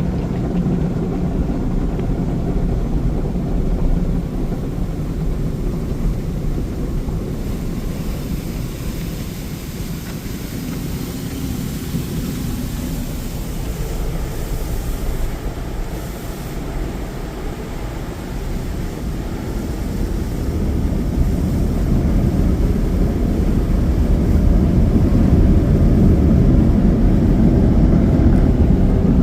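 Belanger tunnel car wash machinery working over the car, heard from inside the cabin: a steady low rumble and rush. A brief hiss rises around the middle, and the sound grows louder over the last third.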